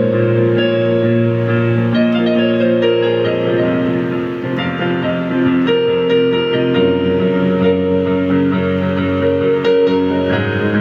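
Synthesizer keyboard playing a melody over held chords in a piano-like voice.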